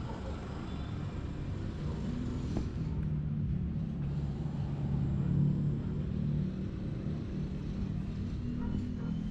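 A motor vehicle's engine passing close by: its low hum grows over a few seconds, peaks about halfway through, then fades away.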